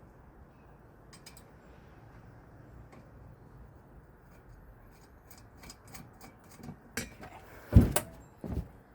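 Light metallic clicks and knocks from ceiling fan parts and screws being handled during installation, sparse at first and then a cluster in the second half, the loudest knock near the end.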